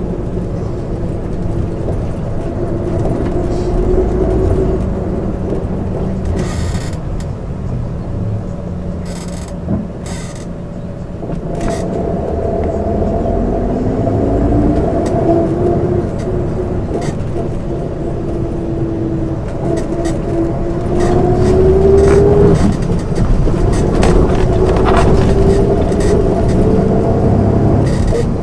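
A 1999 MAN ÜL 353 intercity bus under way, heard from inside: the diesel engine's pitch rises as the bus accelerates, falls sharply at a gear change a little after twenty seconds, then climbs again. A few short rattles and knocks come through in the first half.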